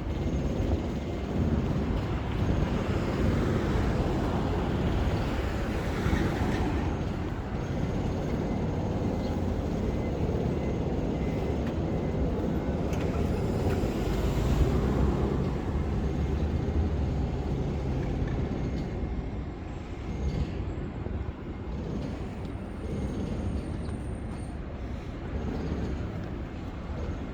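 Steady rumble of city vehicle traffic, with one louder pass swelling about halfway through before the noise eases a little.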